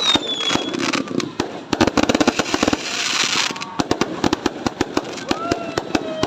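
Fireworks going off in rapid succession: many sharp bangs and a dense crackling, with a falling whistle in the first second and the thickest crackle in the first half.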